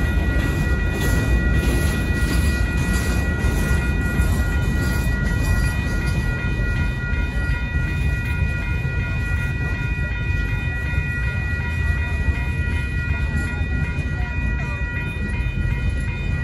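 Freight cars rolling steadily past over the rails with a low rumble, while the grade-crossing warning bell rings a steady high tone throughout.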